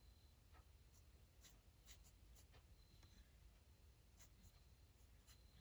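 Faint pen strokes scratching on paper: several short, irregular strokes as lines are drawn.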